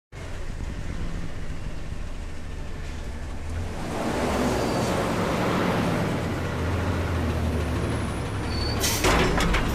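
Front-load garbage truck's engine running, getting louder from about four seconds in, with sharp metal clanks and clatter starting in the last second.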